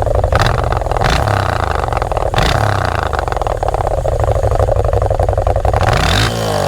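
Motorcycle engines running, with short sharp revs about half a second, one, and two and a half seconds in. Near the end the pitch sweeps, as if a bike rides past.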